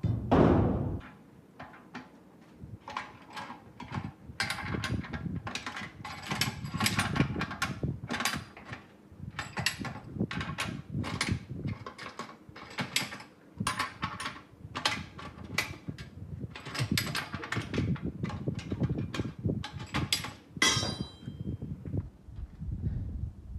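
Workshop clatter from tools being worked by hand: a heavy thud at the start, then irregular knocks, clacks and scrapes, with a short metallic ring near the end.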